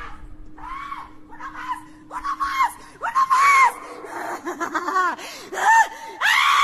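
Screaming and shrieking in a horror audio drama: a run of short cries that rise and fall in pitch, getting louder, ending in one long loud scream near the end.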